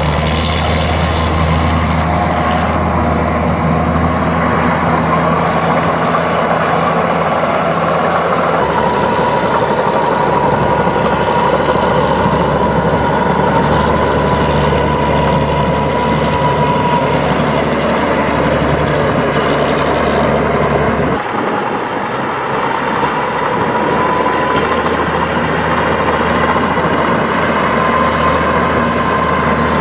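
Heavy tractor diesel engine running steadily under load. Its note changes about nine seconds in and drops briefly about two-thirds of the way through.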